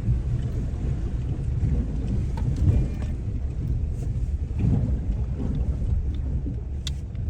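Four-wheel-drive vehicle driving along a rough dirt track: a steady low rumble of tyres and engine, with a few light knocks and rattles.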